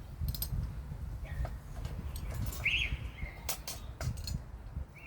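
Scattered sharp clicks and knocks of hand-tool work on a car part, with a short high chirp about halfway through and another near the end.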